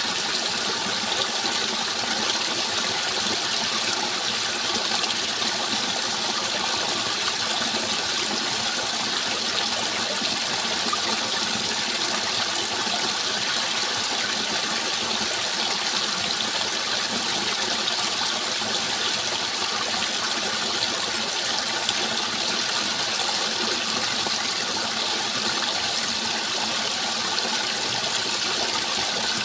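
Steady rushing water, an even, unbroken hiss with no pauses or changes.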